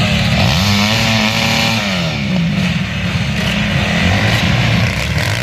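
Snowmobile engine running loud, its pitch rising and then falling back within the first couple of seconds, then running steadily.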